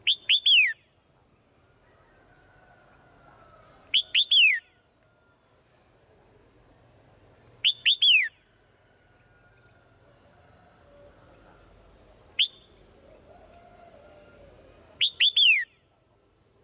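Swallow calling: four quick phrases, each a short note followed by two or three whistles sliding downward, about four seconds apart, with a single short note between the third and fourth. A faint steady high-pitched hiss runs underneath.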